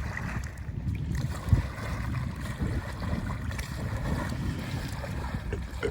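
Wind rumbling on the microphone over open water, with one sharp knock about one and a half seconds in.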